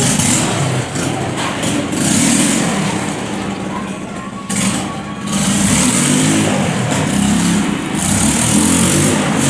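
Car engine running loudly, with a short dip about four and a half seconds in before it comes back louder.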